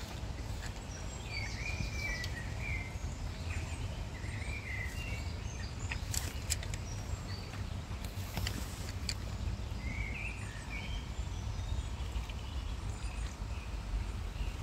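Small birds chirping and singing in short repeated phrases over a steady low rumble, with a few brief clicks around the middle.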